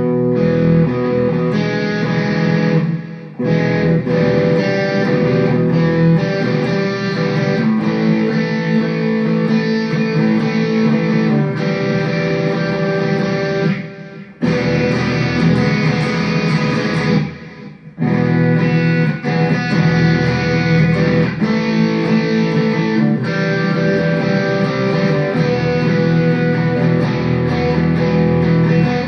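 Electric guitar played through a Mooer GE100 Pro multi-effects preset, strumming sustained chords, with short breaks about 3, 14 and 17 seconds in.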